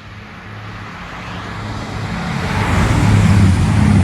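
Diesel passenger train approaching at line speed, its engine hum and wheel-and-rail noise growing steadily louder as it nears, loudest near the end.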